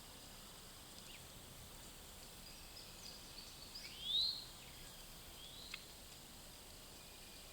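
Outdoor ambience: a steady high insect drone, with a bird's loud rising whistled call about four seconds in and a few fainter chirps around it.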